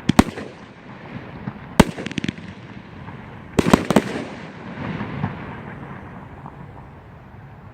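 A 500-gram Subatomic Energy consumer fireworks cake firing: two sharp bangs right at the start, one near 2 s followed by a few smaller pops, and a cluster of three or four bangs about 3.5–4 s in, then the noise fades away.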